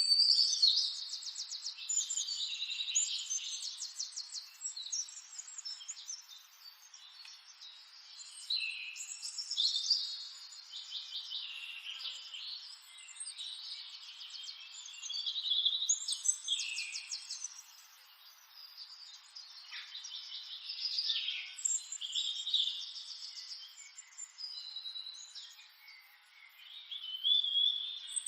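Songbirds singing and chirping: phrases of rapid trills and whistles come in bursts every few seconds, with quieter stretches between them over a faint hiss.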